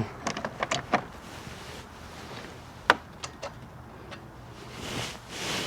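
Light clicks and knocks from handling parts and tools on a motorcycle: a few small ones in the first second, a sharper click about three seconds in, and a soft rustle swelling near the end.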